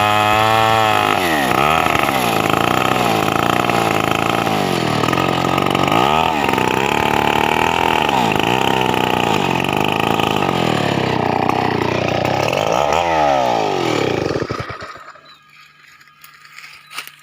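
Stihl 070 two-stroke chainsaw running at high revs, its engine speed dipping sharply and climbing back several times, then cutting off about three-quarters of the way through.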